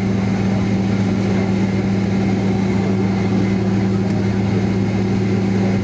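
Steady hum inside the passenger cabin of a Boeing 767-300, a low drone with a constant lower tone and a higher tone held throughout.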